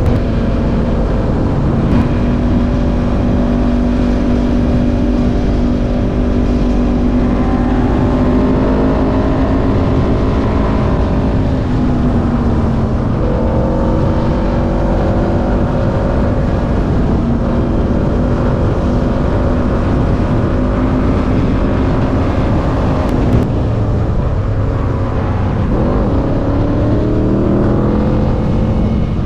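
An engine running under way, its pitch holding, then rising again several times as the throttle opens and gears change. Heavy low wind rumble on the microphone throughout.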